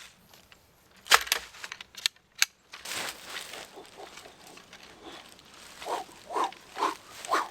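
Sharp clicks and rustling as tent poles and their bag are handled, then a dog whining in about four short calls near the end.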